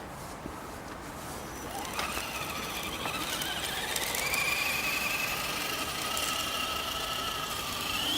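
Electric motor and gears of an Axial RC 4x4 jeep whining as it drives. The whine starts about two seconds in, rises in pitch, then holds roughly steady.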